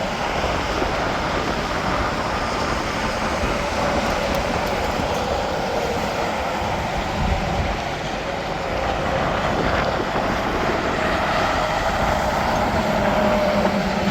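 Steady interstate highway traffic: trucks and cars passing with tyre and engine noise, growing a little louder near the end as a vehicle comes closer.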